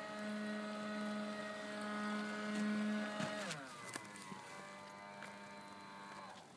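Electric motor of an Aquacraft Bristol Bay RC boat running with a steady whine. Its pitch drops about three seconds in as it slows, and it runs on lower and quieter before cutting off near the end.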